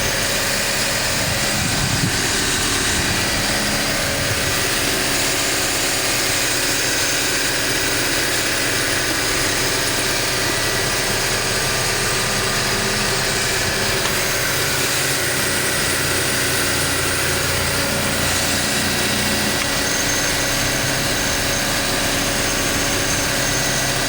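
BMW M43 B19 1.9-litre four-cylinder petrol engine idling steadily.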